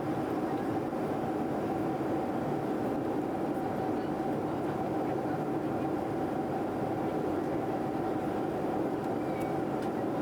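Steady drone of a jet airliner's cabin in flight: an even rushing noise with a faint steady hum running through it.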